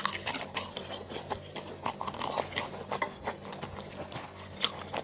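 Close-miked chewing and crunching of mala xiang guo, spicy stir-fried hotpot, in quick irregular crisp crunches with a sharper click a little before the end. A faint steady low hum runs underneath.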